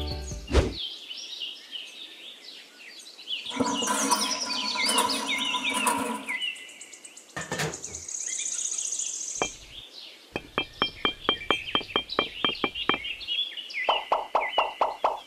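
Birds chirping and singing, with a buzzing trill near the middle, a quick run of clicks a little later and a rapid pulsing call near the end.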